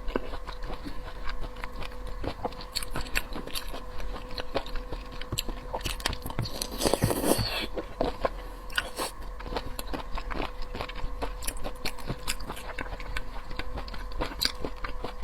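Close-miked chewing and biting of large prawns: irregular wet mouth clicks and smacks, with a louder burst about seven seconds in. A faint steady electrical hum runs underneath.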